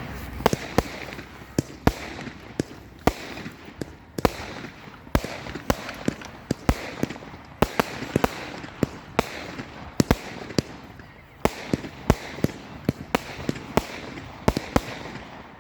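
Fireworks going off in a display: a long run of sharp bangs at irregular intervals, often two or three a second, over a steady hiss.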